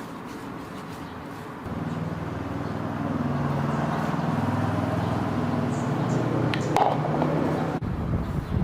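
An engine, most likely the tractor's, running with a steady low hum. It comes in about two seconds in, grows louder and holds, with a brief sharp clink near the end, then breaks off abruptly.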